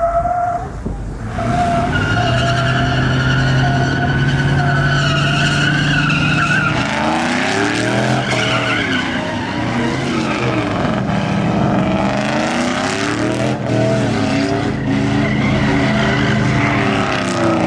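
Pickup truck doing a burnout: tires squealing with the engine held at high revs for the first several seconds, then the engine revved up and down repeatedly as the tires keep spinning.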